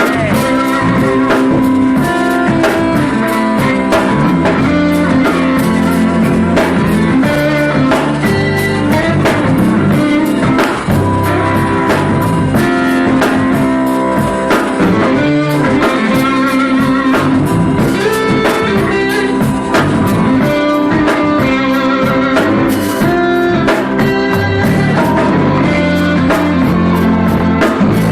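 Blues band playing, led by guitar over a steady drum kit beat.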